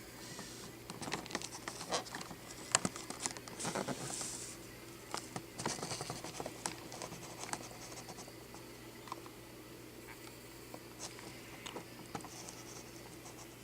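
Handling noise: light scratches, taps and clicks, as of a small die-cast toy car and its packaging being turned over in the hand. They come thickest in the first half, with a sharper click about three seconds in, then thin out.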